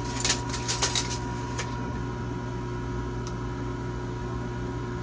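A few light taps and clicks in the first second and a half, then only a steady mechanical hum.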